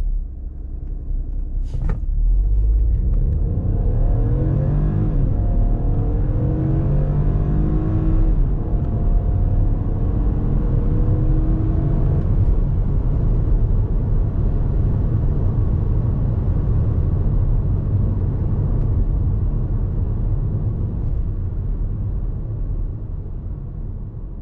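A 2020 BMW 118i's 1.5-litre turbocharged three-cylinder engine accelerating hard from a standstill, heard inside the cabin. After a sharp click about two seconds in, the engine note climbs in pitch and drops back at each of several quick dual-clutch upshifts for about ten seconds. It then settles into a steady rumble at speed that fades near the end.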